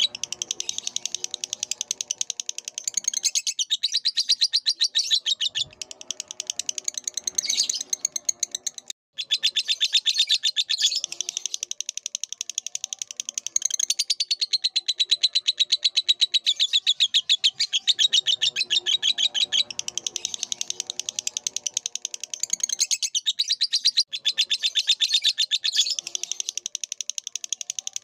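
Lovebird singing a long, fast chattering song of rapid high-pitched chirps, broken by a brief pause about nine seconds in.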